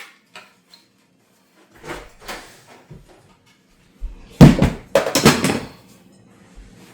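Wooden boards knocking and clattering, a few light knocks followed about four seconds in by a louder run of clattering impacts, as salvaged boards are handled and set down during demolition.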